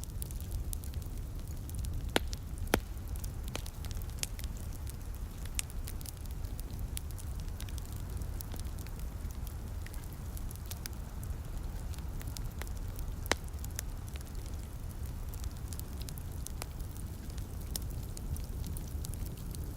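Wood fire crackling, with scattered sharp pops and three louder ones, over a steady low rumble.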